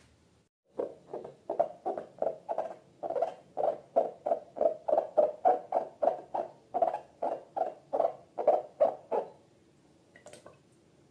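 Slime being squeezed and pressed over and over, making a quick run of wet squishing pops, about two to three a second, that stops about nine seconds in.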